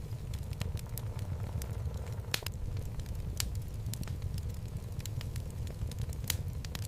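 Wood fire burning in a fireplace: a steady low rumble of the flames with irregular sharp crackles and pops from the logs, a few of them louder.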